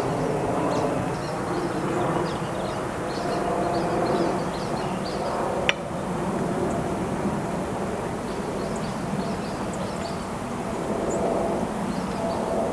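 Honeybees buzzing steadily in a dense drone of many wingbeats around an open hive, with a single sharp click about halfway through.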